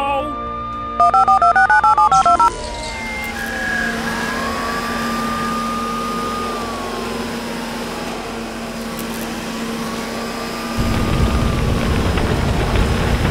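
Cartoon sound effects: a quick run of electronic beeps stepping between two pitches from a machine's control panel, then a slow siren-like wail rising and falling over a steady hum. About eleven seconds in, a loud hiss of water spraying from a hose starts.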